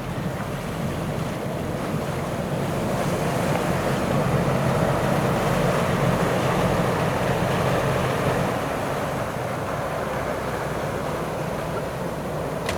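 A motor launch's engine drones low and steady under the rush of water and wind. It swells louder through the middle and eases off after about eight seconds.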